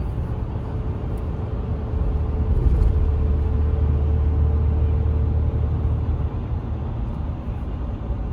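Engine and road rumble heard inside a moving pickup truck's cab. It grows louder about two seconds in, with a faint steady whine, and eases off again after a few seconds.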